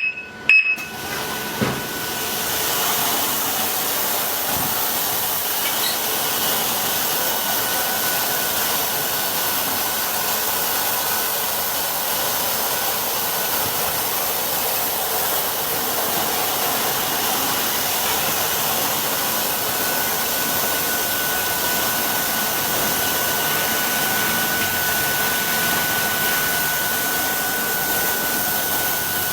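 Car-wash equipment running steadily: a continuous loud hiss with a thin, steady whine on top, starting about a second in.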